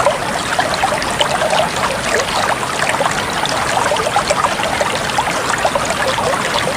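Running water, like a small stream, babbling and trickling steadily with many little splashes.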